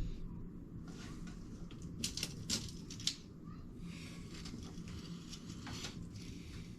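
A few light clicks and rustles of handling, clustered about two to three seconds in, over a low steady hum.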